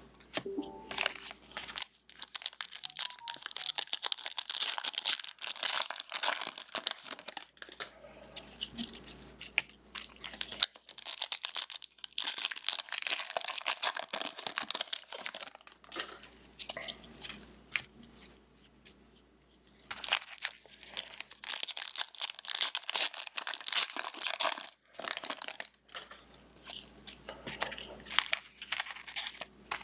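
Crinkly foil wrappers of trading-card packs being torn open and crumpled by hand, in irregular crackling bursts, with a brief lull past the middle.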